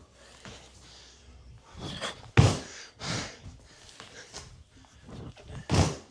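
A man breathing hard during dumbbell squat-clean reps, with two loud short bursts about three and a half seconds apart and softer breaths between.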